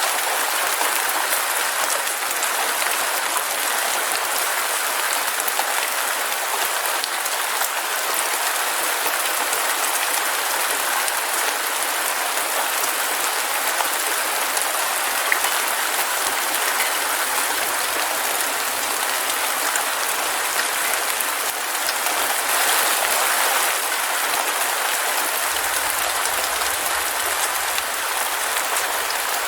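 Heavy rain falling steadily: a dense, even hiss of countless drops with no breaks or single impacts standing out.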